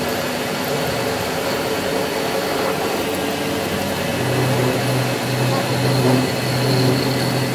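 Workshop machinery running with a steady, loud noise; a low hum joins about four seconds in.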